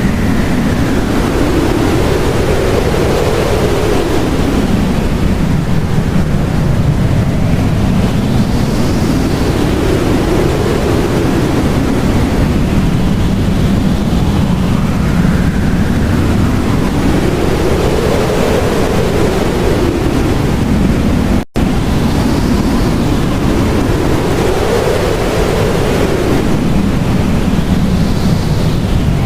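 Blizzard wind blowing steadily, a dense rush of noise with a whistle that rises and falls in pitch every five or six seconds. It cuts out for a split second about three-quarters of the way through.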